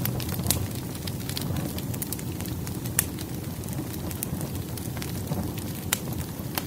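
Burning firewood crackling, with sharp pops scattered over a steady low rush of flame. The loudest pops come about half a second, three and six seconds in.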